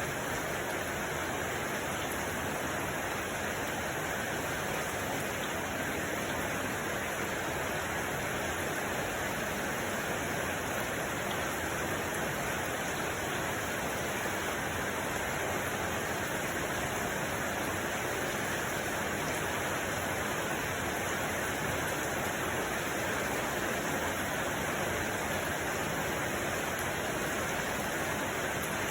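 Steady, unchanging rushing noise with no individual events, evenly spread from low to high pitch.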